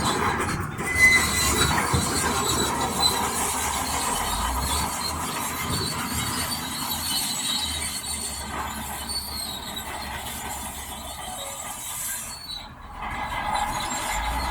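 Crawler bulldozer's steel tracks squealing and clanking as it moves, a metal-on-metal squeal over a low rumble. The sound dips briefly near the end.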